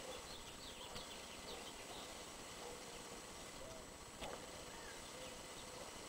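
Faint outdoor ambience with a quick run of small bird chirps in the first second or so, and a single sharp click about four seconds in.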